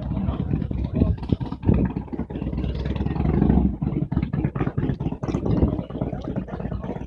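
Motorcycle engine running with a loud, uneven, pulsing exhaust rumble.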